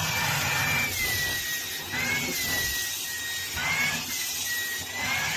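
Small electric motor running: a steady hissing rush with a thin whine whose pitch drifts slowly up and down.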